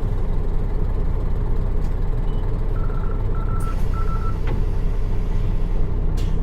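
Nissan Diesel PF6 six-cylinder diesel engine of a city bus running steadily, heard from inside the cabin. About three seconds in come three short, evenly spaced electronic beeps.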